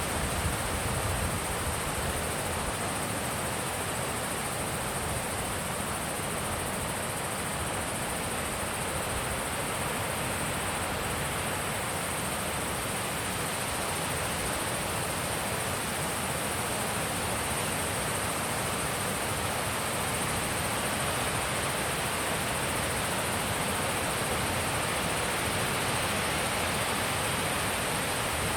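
Wind blowing steadily at a mountain pond, an even rushing with no gusts standing out, and a faint steady high-pitched hiss running above it.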